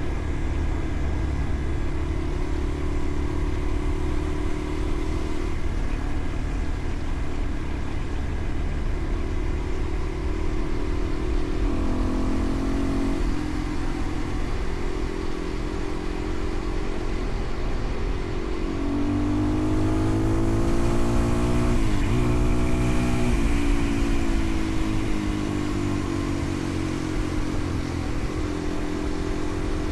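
A vehicle engine running under way, its pitch holding steady, then climbing and falling as it revs and changes gear, with a sharp drop about two thirds of the way through. A steady low rumble of wind and road runs underneath.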